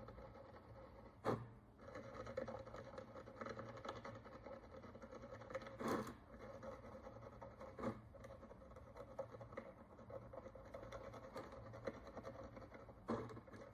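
Sharp steel needle tool scratching and scraping hard dirt crust off an ancient Roman bronze coin in small, continuous strokes. A few sharper ticks stand out, four in all.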